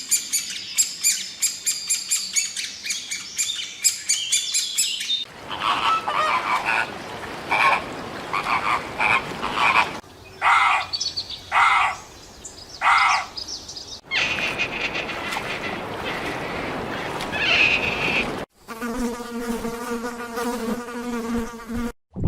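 Several different animal calls cut one after another. First comes fast, high-pitched chirping for about five seconds. A run of short repeated calls follows, and near the end a drawn-out call made of a stack of even tones.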